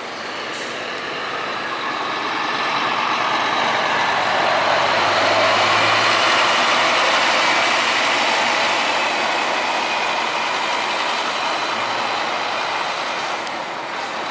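Scania tour bus running past, growing louder to a peak about six seconds in and then fading away again.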